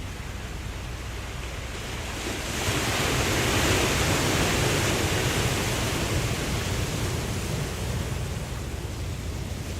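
Ocean waves over a steady low rumble: one wave swells up about two and a half seconds in, then slowly washes away over the next few seconds.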